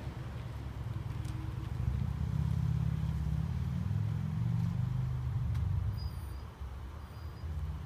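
Police SUV engine running as the vehicle rolls slowly forward, its low rumble swelling for a few seconds in the middle and then easing off.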